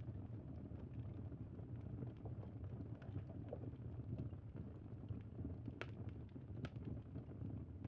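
Wood fire crackling, with a steady low rumble and frequent small pops, and two sharper pops close together about six seconds in.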